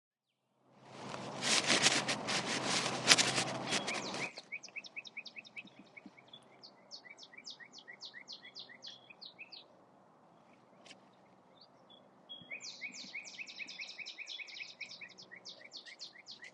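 A songbird singing two long runs of quick repeated chirps, about five a second, the second run starting about twelve seconds in. Before the singing, a loud rushing noise lasts about three seconds and cuts off suddenly.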